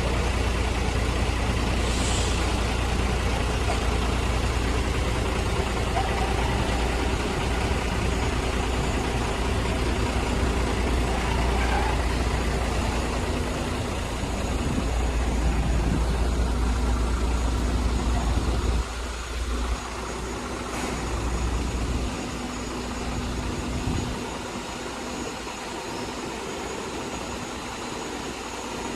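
Electric reach truck running, a steady low rumble with a faint hum, which drops noticeably about two-thirds of the way through.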